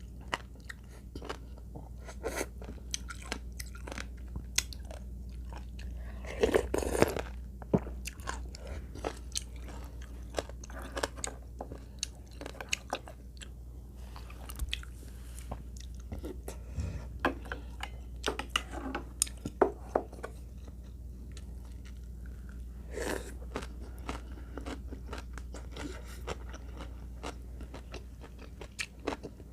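Close-miked eating: chewing, biting and crunching of crisp Korean side dishes such as water dropwort salad and radish water kimchi, with cod soup. There are many short crunches and mouth clicks, and a louder stretch about a quarter of the way in and again about three-quarters through.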